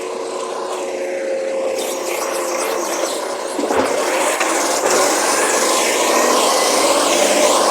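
Recycling garbage truck running, growing louder about three and a half seconds in, with a rising whine toward the end.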